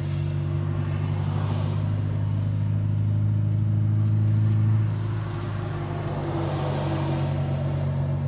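Ford Cargo 2628 dump truck's diesel engine running under way, heard from inside the cab as a steady low drone. It builds gradually, then drops a little about five seconds in and holds steady.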